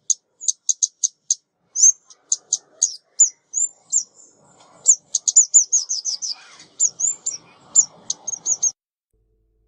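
Female 'ốc mít' bird calls, the kind played as a trapping lure: quick, high, thin chirps, spaced at first and then running together in a rapid burst about five seconds in, stopping shortly before the end.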